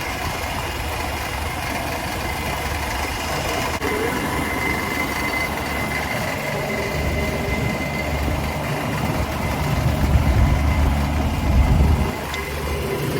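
Walk-in cooler condensing unit running with its newly replaced condenser fan motor: a steady low machine hum with a thin constant whine above it. The low rumble swells for a couple of seconds near the end, then eases off.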